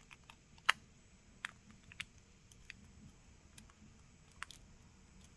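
Scattered light clicks and taps from small tools and parts being handled on a smartphone during repair, a few seconds apart, the sharpest one about two-thirds of a second in.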